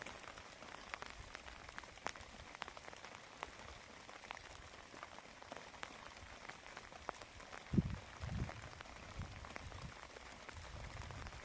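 Rain falling, a steady hiss with many scattered drops ticking. A dull thump sounds about two-thirds of the way in, followed by a few softer low knocks.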